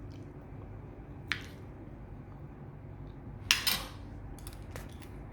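Cutlery clinking against a plate while eating: a single light click about a second in, a louder short clatter past the middle, then a few faint ticks.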